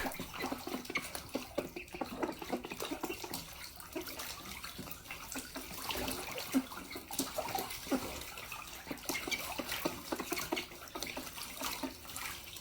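Light, irregular splashing and dripping of water in a bird bath, many small splashes at uneven intervals.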